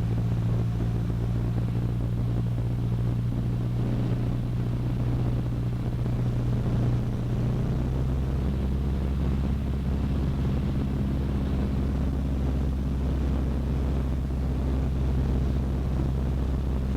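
Cessna 152's four-cylinder Lycoming O-235 engine droning steadily in flight, with a slight shift in its tone about eight seconds in.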